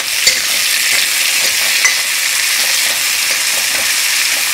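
Chopped tomato and onion sizzling in hot oil in a metal kadai, stirred with a steel ladle that scrapes the pan and taps it a few times.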